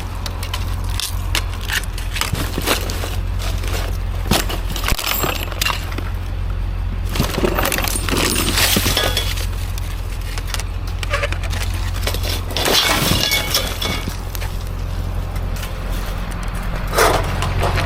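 Pieces of scrap steel clanking and clinking as they are handled and tossed, many irregular sharp knocks over a steady low hum.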